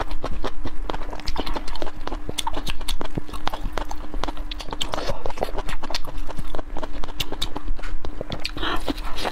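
Close-miked mouth sounds of someone eating lamb tripe: a steady run of quick, wet chewing and smacking clicks, with tearing of the chewy meat. A faint steady hum runs underneath.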